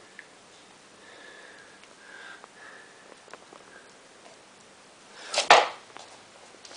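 Light clicks and taps of small screws, parts and tools being handled, with faint short squeaks early on. About five seconds in comes one short, loud breathy rush of air.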